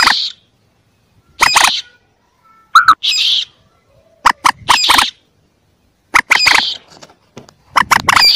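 Common moorhen chick calls: short, harsh calls repeated every second or so, some in quick pairs. They come from a looped bird-lure recording played to draw moorhens in.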